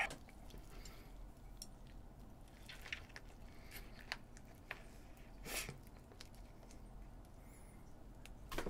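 Faint close-miked chewing and wet mouth clicks from eating a spam-and-rice gimbap roll, with a slightly louder smack about halfway through.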